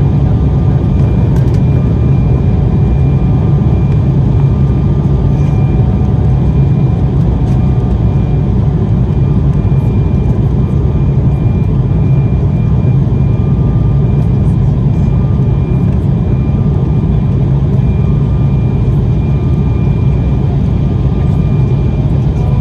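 Steady in-flight cabin noise of an Embraer 190 airliner: a loud, even low rumble of airflow and turbofan engines, with a faint steady whine above it.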